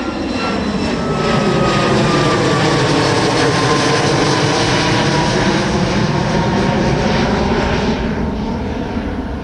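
Boeing 737 MAX jet's CFM LEAP-1B turbofans at takeoff power as the plane climbs past: a loud roar with an engine whine that glides steadily down in pitch as it goes by, easing off a little near the end.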